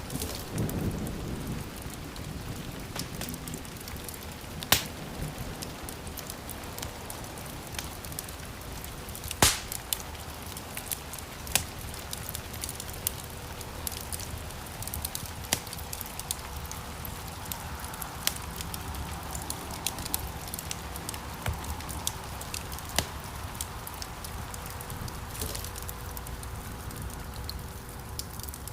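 Wood fire crackling: a steady low rush of burning with scattered sharp pops and snaps, the loudest about 5 and 10 seconds in. A low rumble fades out in the first second.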